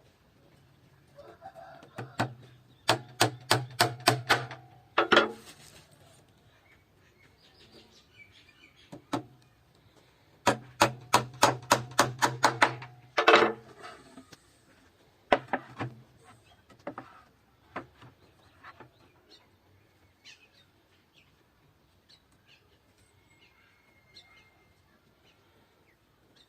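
Two runs of rapid, evenly spaced knocks on wood, about four or five a second, each with a low hum under it and ending in a harder knock. A few scattered single knocks come after the second run.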